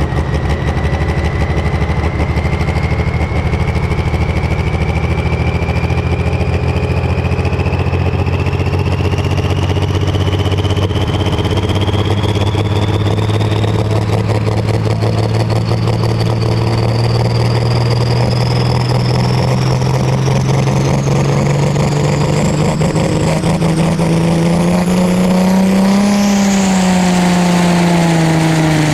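Limited Prostock pulling tractor's engine running hard under load, its note rising slowly and dipping near the end. A high whine climbs steadily in pitch throughout.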